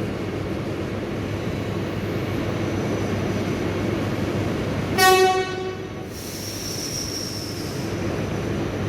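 A train running at the station with a steady rumble; about five seconds in, a train horn gives one short blast, the loudest sound here, followed by a thin high squeal for about a second and a half.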